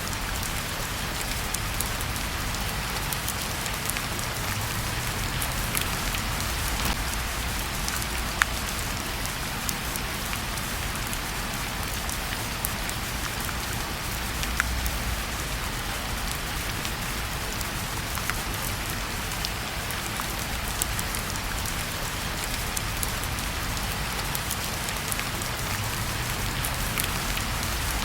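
Steady rain falling, with scattered sharp pops and crackles from a wood fire burning in a fireplace.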